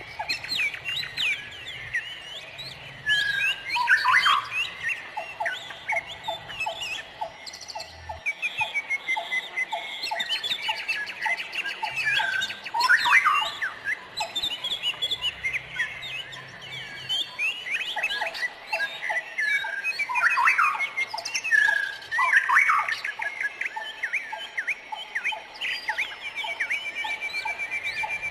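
A chorus of many wild songbirds calling and singing at once: overlapping chirps, whistles and squawks, with a lower call repeated a few times a second for stretches and a fast, even trill near the end.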